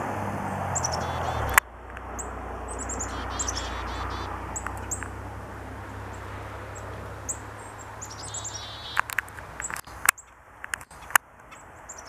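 Small songbirds chirping: scattered short, high chirps and a couple of quick twittering runs, over a low steady rumble. Sharp clicks come about a second and a half in and several more near the end.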